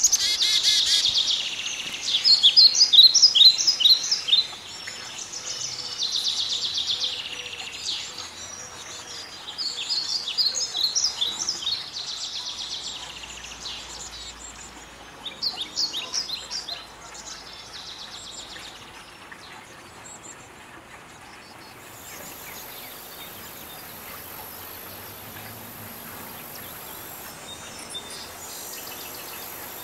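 Small birds chirping in repeated bursts of quick, high chirps through the first half, then going quieter. In the second half a faint, steady, very high buzz sets in.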